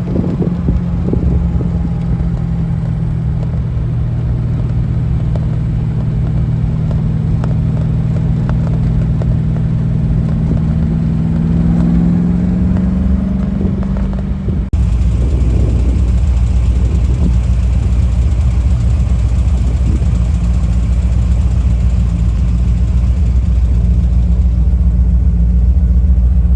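Triumph TR8's 3.5-litre Rover V8 running at a steady cruise, heard from the car while driving, its note edging up a little about twelve seconds in. Partway through the sound cuts abruptly to a lower, louder drone of engine and road noise.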